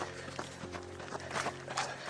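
Footsteps of a person running on a dirt trail: irregular crunches and thuds over a steady low hum.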